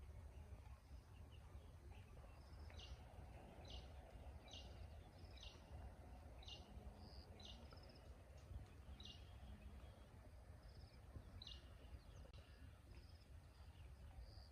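A bird calling faintly and repeatedly, a short high note a little more often than once a second, over a low, steady outdoor rumble.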